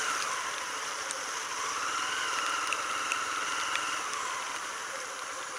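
Motorcycle engine running at low speed, over the steady hiss of heavy rain.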